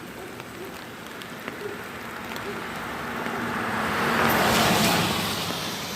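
A car passing by on the road, its tyre and engine noise swelling to loudest about four to five seconds in and then fading away.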